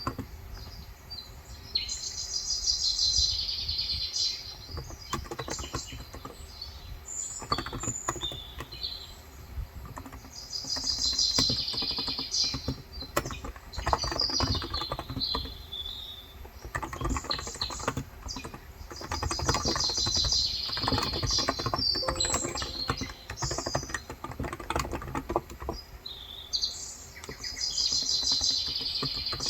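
Typing on a Cox Endeavor electro-capacitive (Topre-style) tenkeyless keyboard with light 35 g keys, a steady patter of soft keystrokes. Over it, a bird sings a high chirping phrase of a few seconds about every eight or nine seconds, four times.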